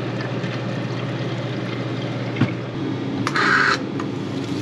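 Self-serve soda fountain pouring drink into a cup over a steady low hum. A click comes about two and a half seconds in, and a short, louder hissing spurt follows near the end.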